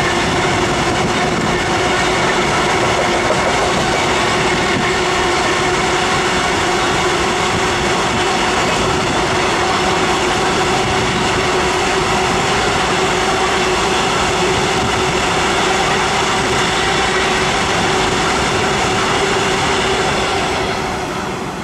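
Freight train of hopper wagons rolling past on the adjacent track, a continuous loud rolling noise with a steady ringing tone over it. The sound drops away near the end as the last wagon passes.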